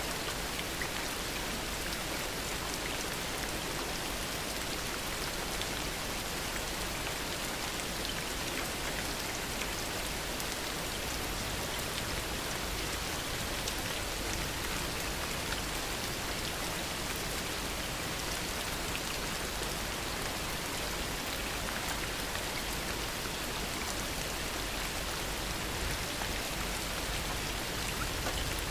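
Heavy rain falling steadily, with a dense run of small, distinct drop hits over an even hiss and no thunder.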